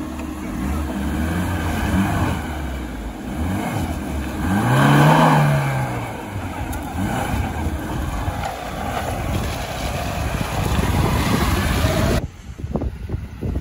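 Lada Niva engine running, revving up and back down once about five seconds in. Near the end the sound changes abruptly to a duller rumble.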